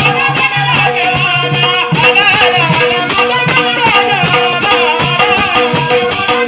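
Padawali bhajan devotional music: pitched melody lines over a quick, steady percussive beat.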